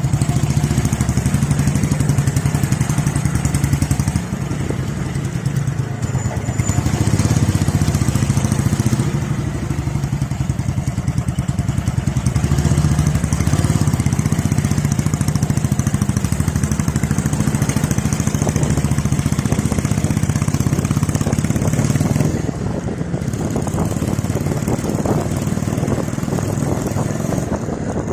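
Single-cylinder four-stroke exhaust of a BSA C15 250cc motorcycle running, the exhaust note easing off and picking up again a few times.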